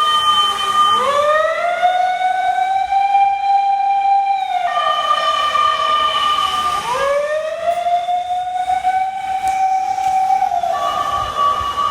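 Emergency vehicle siren sounding in a repeating cycle. A steady high tone held for a couple of seconds switches to a lower tone that rises and holds, then drops back to the high tone, about every six seconds.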